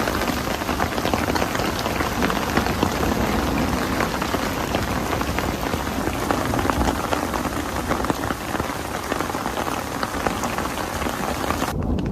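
Heavy rain mixed with hail pelting a small umbrella overhead: a dense, steady hiss of rain, scattered with many sharp ticks of hailstones striking. The hiss thins out just before the end.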